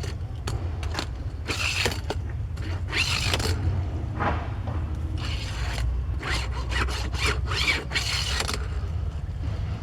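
Matchbox die-cast toy car, a 1976 Honda CVCC, pushed back and forth across a surface, its small wheels whirring and scraping on their axles in several short passes, with a rising and falling whine on each pass.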